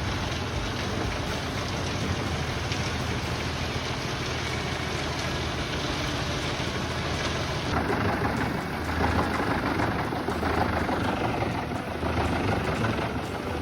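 A large machine's engine running steadily, the sound changing abruptly and growing louder and harsher about eight seconds in.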